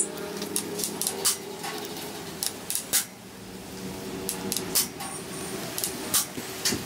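Small metal parts and tools clinking and clattering against each other, a dozen or so sharp clicks, over a steady low hum.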